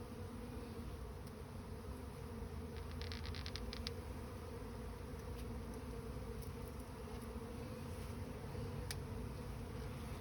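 Honeybee swarm buzzing, a steady low hum. A quick run of about eight sharp clicks comes about three seconds in, and a single click near the end.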